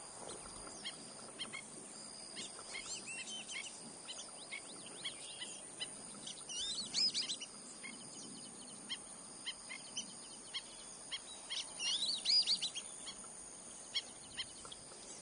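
Wild birds calling outdoors: many short chirps and quick sweeping notes, coming in several flurries, over a faint steady high-pitched tone.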